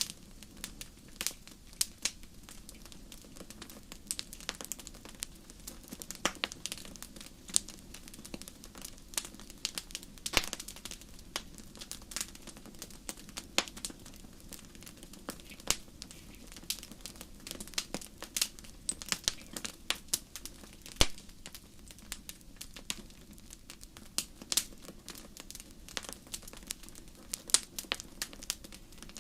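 Fireplace fire crackling, with many sharp, irregular pops and snaps over a low, steady rumble.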